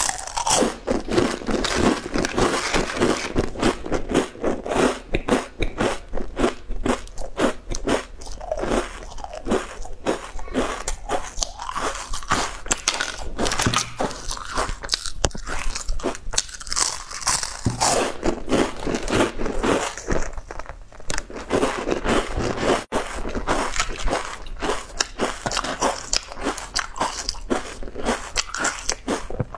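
Close-miked crunching and chewing of crisp, crinkle-ridged round snack chips: bite after bite of sharp cracks in quick succession, with short pauses between mouthfuls.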